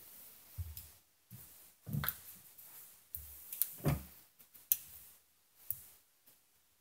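A handful of soft thumps and sharp clicks spread over a few seconds, handling or bumping noises with no piano playing, then quiet near the end.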